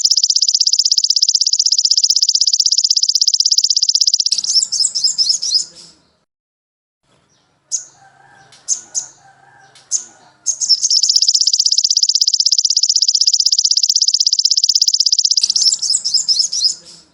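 Songbird singing: a high, very rapid trill held for about four seconds, breaking into a run of quicker varied notes, then a short pause with a few separate chirps, then a second long rapid trill of about five seconds ending in varied notes again.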